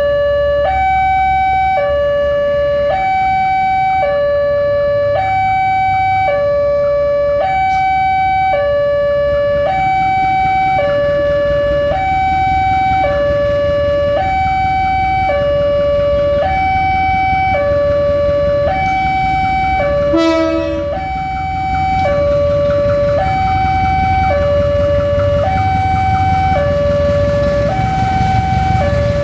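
Railway level-crossing warning alarm sounding its two-tone high-low signal, switching pitch about every half second, over a low rumble that grows louder near the end. About two thirds of the way through, the signal drops out briefly with a short rising chirp.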